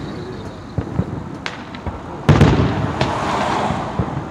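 Aerial fireworks shells bursting: a couple of sharp pops in the first half, then a loud boom a little past halfway that rumbles away, and further pops near the end.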